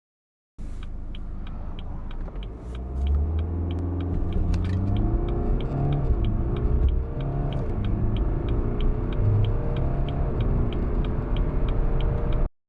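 BMW 3 Series (F30) turbodiesel accelerating hard from a standstill. The engine note climbs, drops back at gear changes and climbs again. A steady light ticking runs along at about three ticks a second.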